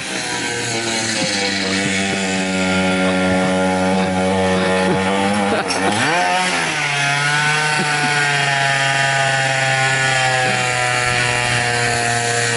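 Cheap Chinese 50cc two-stroke engine on a drift trike, running hard at high revs with a steady buzzing pitch. About six seconds in the revs dip and swoop back up, then hold at a slightly lower steady pitch.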